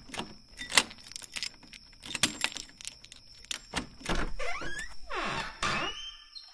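Keys jangling with sharp metallic clicks, then a door creaking open, its creak sliding down and back up in pitch.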